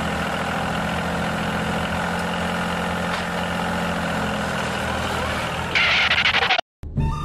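Dubbed tractor engine sound effect idling steadily with a low hum. About six seconds in, a short harsher, hissy burst comes in, then the sound cuts off suddenly.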